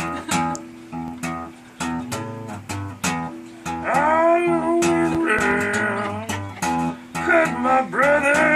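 Acoustic guitar picking a slow blues figure, note by note. About halfway through, a voice joins in singing a sliding, wordless melody over it.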